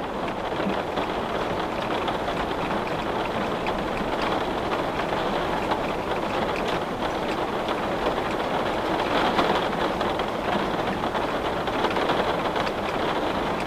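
Steady rain on a window: an even hiss with faint scattered drop ticks.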